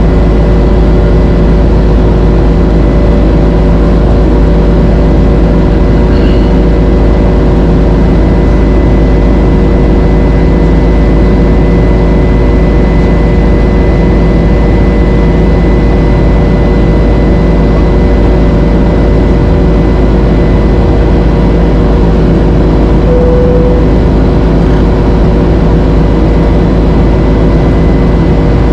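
Steady, loud cabin drone of a Boeing 767-300 with its General Electric CF6 engines, heard from inside the cabin: the engines' hum with a few held tones over a rushing of air, unchanging throughout.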